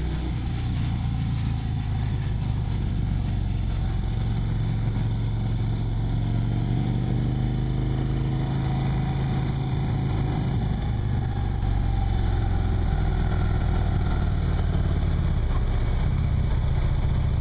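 Harley-Davidson Ultra Classic's V-twin engine running steadily under way, heard from an onboard camera with a constant rush of wind and road noise. The sound gets a little louder and brighter about twelve seconds in.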